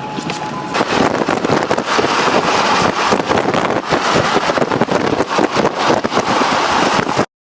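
Strong wind rushing over the microphone, a dense noise that grows louder about a second in. It cuts off abruptly to silence near the end.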